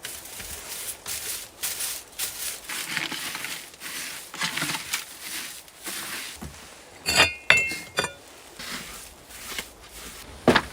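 Rustling and scraping handling noise, with three or four sharp clinks of hard objects about seven seconds in that ring briefly, and a single knock near the end.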